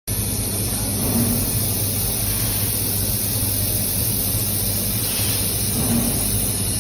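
Welding equipment running: a steady electrical hum with a high hiss throughout.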